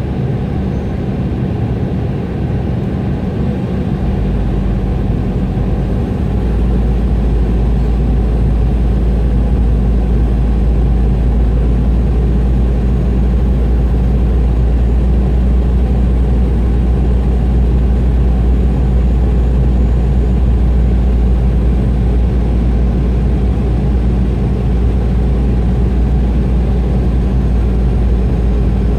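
Steady cabin noise of an Embraer E175 airliner, the drone of its twin turbofan engines and the rush of air, heard from inside the cabin. A deeper rumble builds about four to six seconds in and then holds steady.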